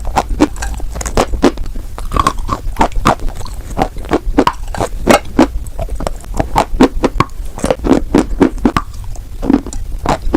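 Close-miked biting and chewing of white chalk: a dense, irregular run of sharp, dry crunches, a few a second.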